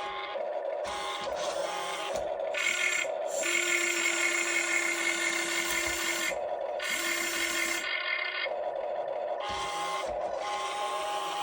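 Small electric motors of a Huina RC excavator whining in stops and starts as its arm, boom or tracks are worked, with the longest run lasting about three seconds.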